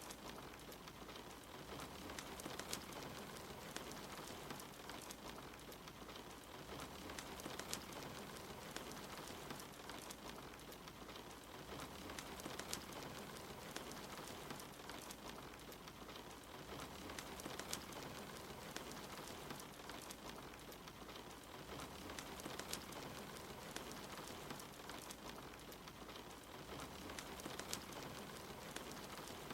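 Steady rain hiss mixed with a crackling wood fire, with frequent small sharp pops and crackles scattered through it.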